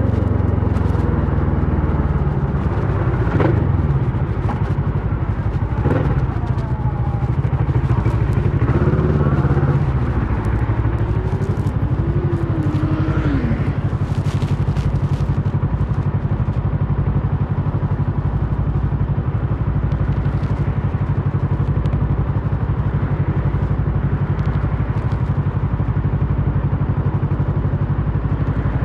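Kawasaki Versys 650's parallel-twin engine running through a Mivv slip-on exhaust, with a few shifts in pitch in the first half, then a steady, even note from about fourteen seconds in.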